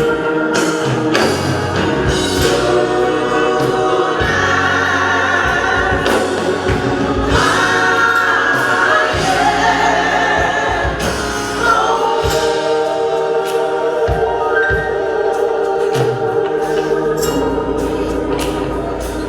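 Gospel choir singing with organ accompaniment and percussion.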